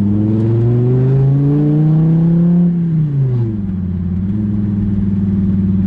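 Dodge Viper ACR's 8.4-litre V10 through its side-exit exhaust, revs climbing for about two and a half seconds, then dropping quickly and settling to a steady lower drone.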